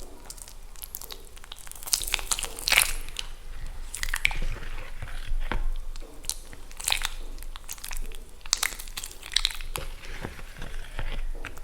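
Balls of chalk soaking in water, crackling and popping as air escapes from them: an irregular run of sharp little pops and crackles, some in quick clusters.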